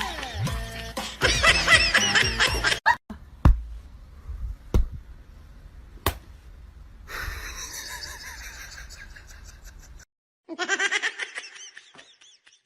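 A person laughing, then a few single sharp knocks and faint noise, with another burst of laughter near the end.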